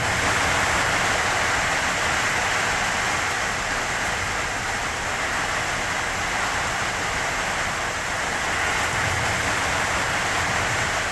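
Steady hiss of heavy rain falling, with no let-up, fading out near the end.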